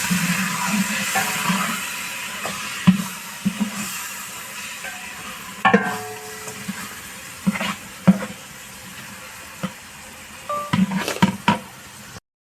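Onion and tomato masala sizzling in a pot as it is stirred, with a spoon knocking and scraping against the pot every second or two. The sizzle is loudest at first and dies down over the first few seconds.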